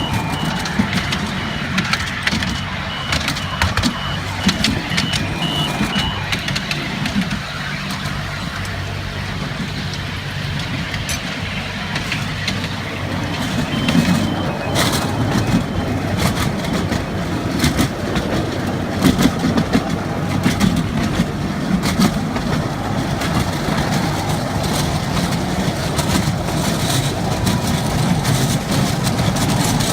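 Miniature railway train running, with a steady low engine hum and scattered clicks. A high repeated beeping sounds for the first several seconds and again briefly about 14 seconds in.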